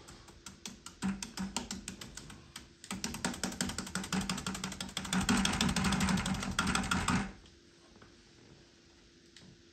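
Oil paintbrush being rinsed, shaken rapidly so it clicks against the inside of the rinse container. The clicking grows louder and denser about three seconds in and stops suddenly about seven seconds in.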